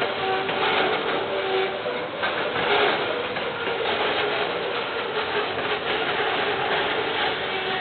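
KiwiRail train passing on the line: a steady, continuous rolling noise of wheels on rails with faint steady tones in it, heard through a security camera's microphone.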